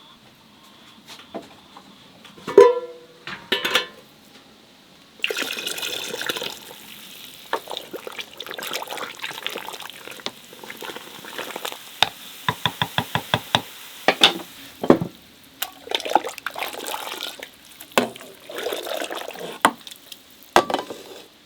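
Water pouring and splashing into a vessel, with clinks and knocks of kitchenware, and a quick run of about eight taps a little past the middle.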